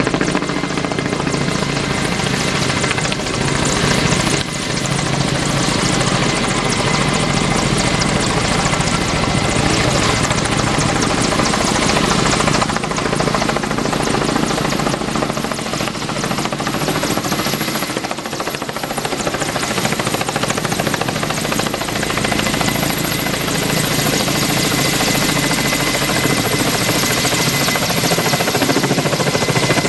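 Kamov Ka-32A11BC coaxial-rotor helicopter running close by, loud and steady, its turboshaft engines giving a constant high whine over the rotor noise.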